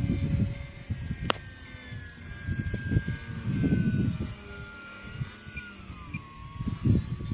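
Electric RC model airplane's motor and propeller whining as it flies, the pitch drifting slowly down and back up as it passes, over irregular low rumbles.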